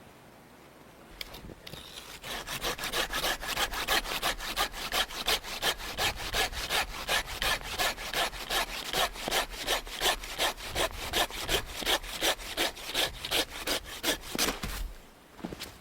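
Hand saw cutting through wood with quick, even strokes, about three to four a second, starting about a second in and stopping near the end.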